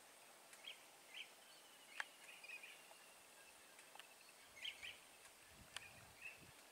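Near silence in the open, with faint, scattered short bird chirps and a few light clicks.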